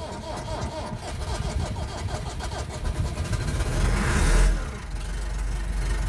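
Massey Ferguson 3060 tractor's diesel engine cold-starting in about −12 °C frost. The starter cranks for about three seconds, the engine catches with a loud burst about four seconds in, and then it settles into a steady run.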